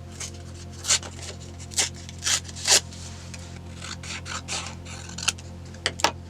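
Hand journaling work on paper: a run of short scratchy strokes, several of them sharp and loud, over a steady low hum.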